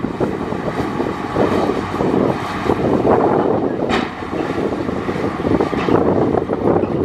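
Komatsu D58E crawler bulldozer's diesel engine running steadily under load, with a brief sharp high sound about four seconds in.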